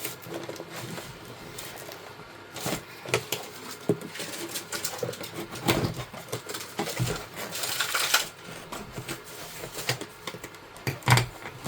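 Irregular clicks, taps and light rustling of packaging and small items being handled and unpacked.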